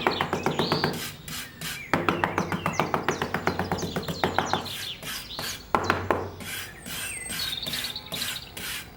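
Small birds chirping in short rising and falling calls, over a fast, even ticking and a low steady hum.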